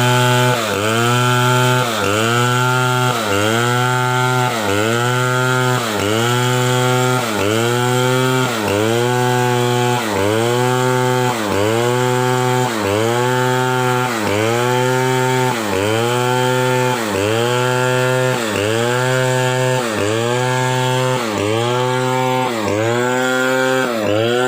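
Chainsaw cutting wood, its engine pitch dipping under load and recovering about once every second and a bit, in a steady rhythm.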